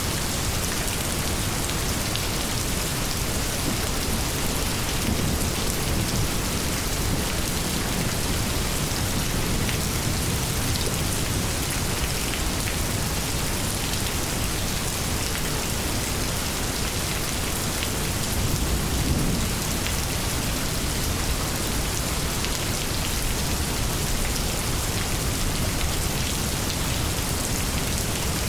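Steady rainstorm, a dense even patter of rain, with low rumbles of thunder swelling up twice, about five seconds in and again about two-thirds of the way through.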